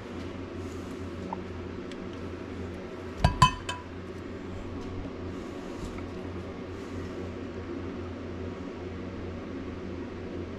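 Steady low machine hum with a short cluster of glass clinks about three seconds in, a glass container knocked against a hard surface while plastisol lure molds are being filled.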